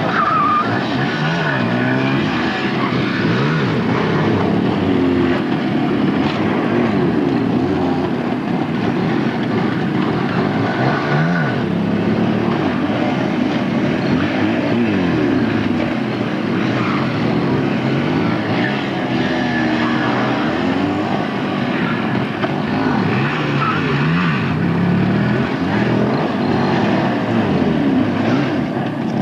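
Motorcycle engines revving up and down repeatedly, several overlapping, with the pitch rising and falling every second or two.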